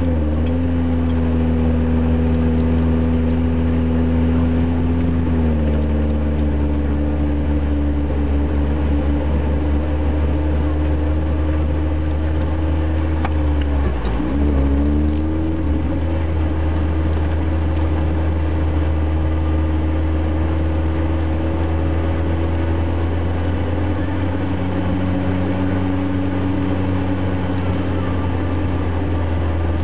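A four-wheel-drive car's engine running under way, heard from inside the cabin. Its note is steady but steps to a new pitch several times, dipping and picking up again about a quarter and halfway through, as the revs change while driving.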